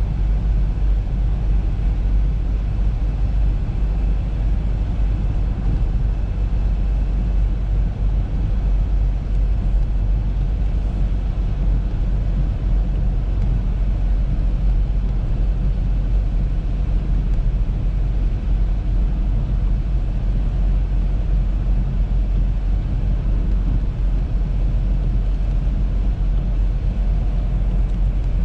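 Audi A3 driving at a steady pace, a constant low rumble of engine and road noise that doesn't change.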